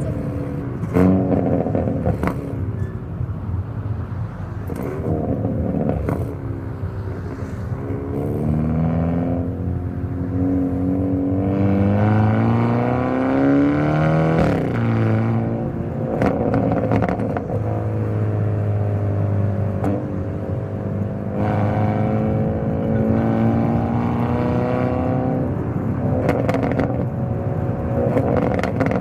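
Hyundai Elantra N's turbocharged 2.0-litre four-cylinder engine and exhaust under hard driving. The pitch climbs with revs and drops sharply at gear changes, and there are several sharp cracks along the way.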